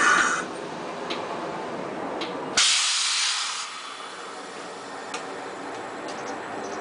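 Electric train at a station platform, running noise followed about two and a half seconds in by a sudden loud burst of compressed-air hiss lasting about a second, then fading.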